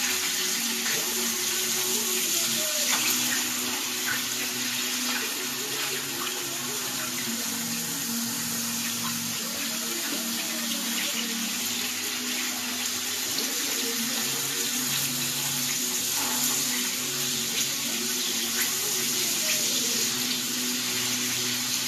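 Chicken pieces frying in hot oil: a steady hiss with faint crackles.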